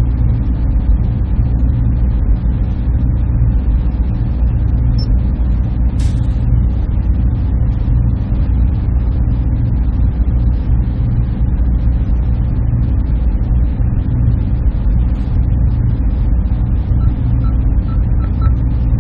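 Server room ambience: a steady, loud low hum and rush of machinery and cooling fans, with a single click about six seconds in and a few faint short beeps near the end.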